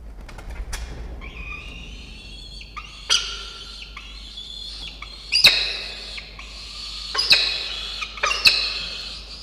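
Peregrine falcons calling in a nest box: a run of drawn-out, harsh wailing calls, with four louder screams at intervals of a second or two. These are food-begging and excitement calls as a live prey bird is brought to the chick.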